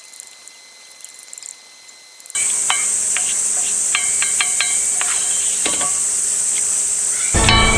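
Cicadas droning in a loud, steady high-pitched chorus that cuts in suddenly about two seconds in. Scattered light clinks and knocks run over it, with a louder thump near the end.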